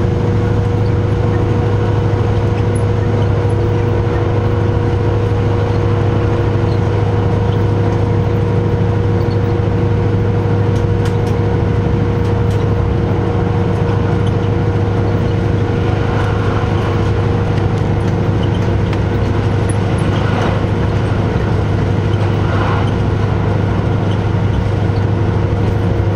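Diesel railcar running steadily, heard from on board: an even low hum with a steady higher whine over it.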